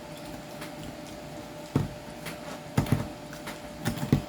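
Potato masher working boiled potatoes in a pot: a few irregular knocks and thuds against the pot, most of them in the second half.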